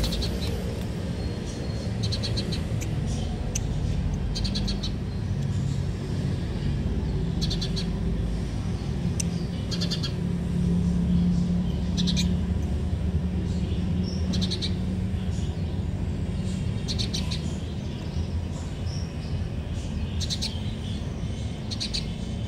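Small birds chirping in short bursts every second or two over a steady low rumble.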